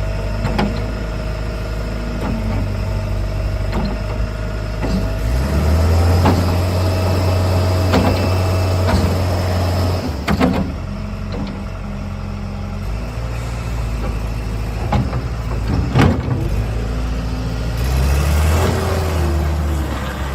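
Bobcat S18 skid steer loader's diesel engine running, its speed stepping up and down several times, with a few sharp knocks and clunks.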